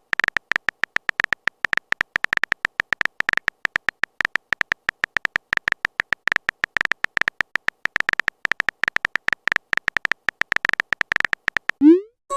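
Phone-keyboard typing sound effect: a fast, uneven run of short tapping clicks, each with a slight beep to it, as a chat message is typed out. Near the end the typing stops and a short rising swoosh plays, a message-sent sound.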